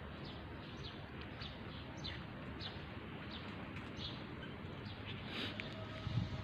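Small birds chirping repeatedly, short high falling chirps every half second or so over a steady background hiss. A brief low thump comes near the end.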